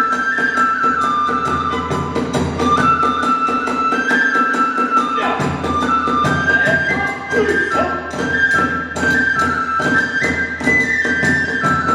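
Kagura hayashi ensemble playing: a bamboo transverse flute (fue) carries a high melody that steps up and down, over a fast, steady beat of drums and clashing hand cymbals (tebyōshi).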